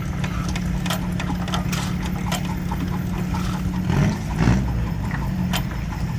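Engine-driven corn stalk grinder running: a steady low engine drone with many irregular clicks and snaps of stalks being cut, briefly louder about four seconds in.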